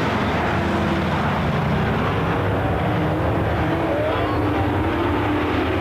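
Several Super Truck race trucks' engines running hard together during green-flag racing. Their overlapping pitches rise and fall as the trucks accelerate and pass.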